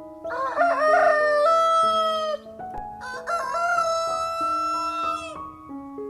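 Rooster crowing twice, two long cock-a-doodle-doo calls about half a second apart, over background music.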